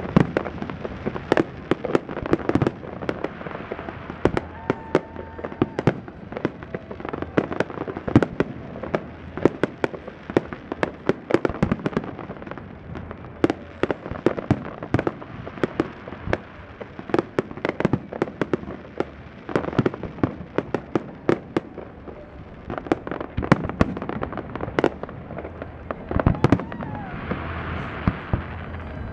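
Aerial fireworks going off in rapid, continuous succession, with many sharp bangs and cracks every second. A hissing rush rises near the end.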